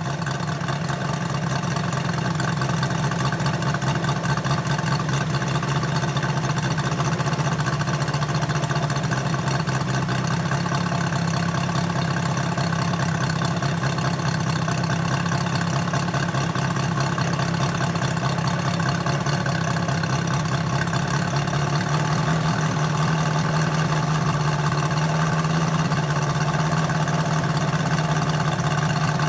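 Moki 257 250cc seven-cylinder radial gas engine running steadily on a large model airplane, warmed up. Its pitch rises slightly about a third of the way in and again near the end.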